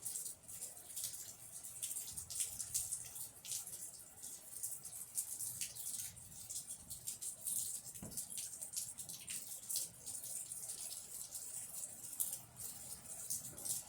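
Rain falling, with a steady hiss and many small, irregular ticks of drops landing close by. A single dull thump about eight seconds in.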